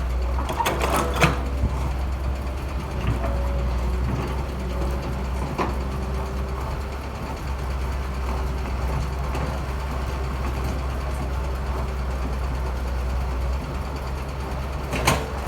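Heavy construction machinery engines running steadily with a low rumble, with a few sharp knocks about a second in, once around the middle, and again near the end.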